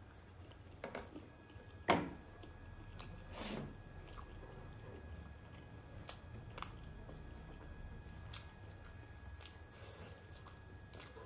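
A person chewing a soft steamed momo dipped in soupy achar: quiet wet chewing and mouth sounds, with a few short sharp clicks of a metal fork against the glass bowl, the loudest about two seconds in.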